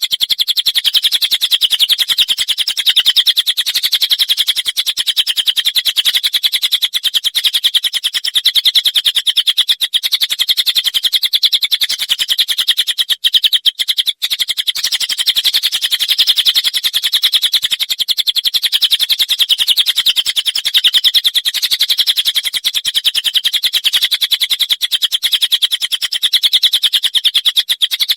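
Cililin song: a continuous, very rapid-fire run of high repeated notes in the 'tembakan' and 'rambatan' style, with two brief breaks about halfway through.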